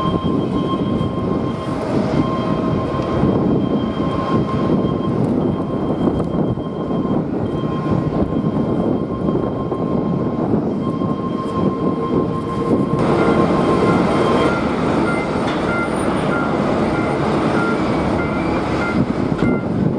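Jet airliner engines running with a steady whine under a heavy rush of strong wind buffeting the microphone. About two-thirds of the way through, the engine whine shifts to a different pitch.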